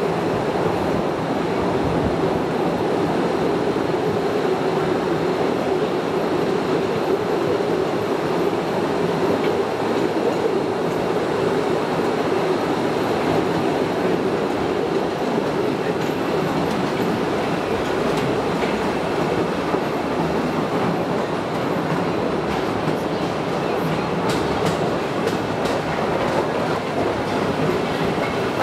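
Postojna Cave tourist train running steadily on its narrow-gauge track, heard from aboard: a continuous rumble and rattle of wheels on rails. A run of sharp clicks comes near the end.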